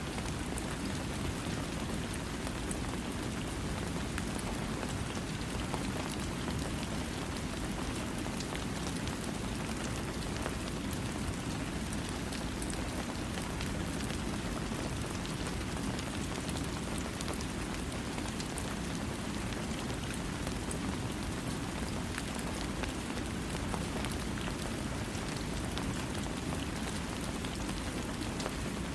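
Steady rain falling on a surface, an even hiss of drops with no thunder.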